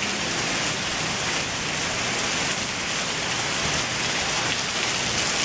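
Heavy rain pouring down in a thunderstorm, a dense, steady hiss with no break.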